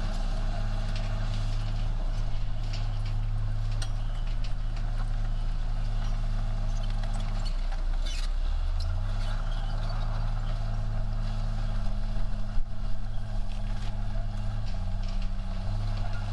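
Heavy diesel engine of a working bulldozer running steadily, its pitch dropping about seven seconds in and climbing back up a second or so later as the load changes. Scattered short clicks and knocks sound over the engine.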